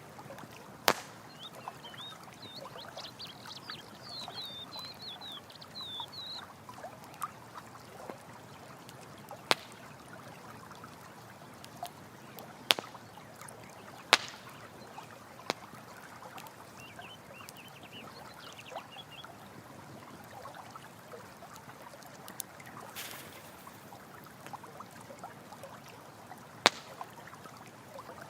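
Campfire crackling, with sharp single pops spread through, over the steady rush of running water. Faint chirping calls come twice, for a few seconds near the start and again around the middle.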